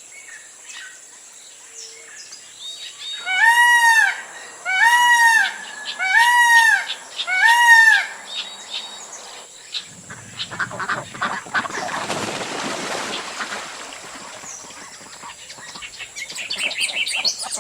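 Birds calling: four loud honking calls, each about a second long, rising and falling in pitch. A long rustling rush follows, and a flurry of high chirps comes near the end.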